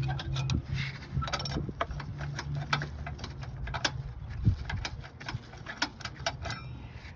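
Socket wrench ratcheting in runs of sharp clicks while loosening the battery hold-down bolts, over a low steady hum.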